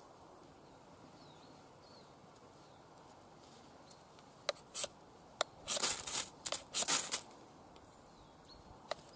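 A few sharp clicks, then several short, hard scraping strokes of the steel SRK knife: either the spine struck down a ferro rod or the blade shaving wood. The first few seconds hold only faint outdoor background.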